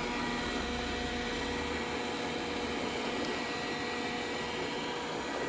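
Dreame D10 robot vacuum running steadily, a whirring hum with a few steady tones over its suction noise. A low rumble underneath drops away about two seconds in.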